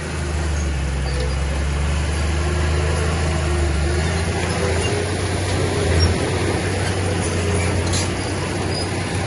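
Diesel engine of heavy earthmoving machinery running steadily with a deep drone, swelling briefly about six seconds in.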